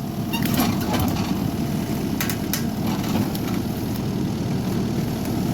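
Skid steer engine running steadily under load while the hydraulic tree shear works on a log. Several sharp cracks and snaps come through the first few seconds.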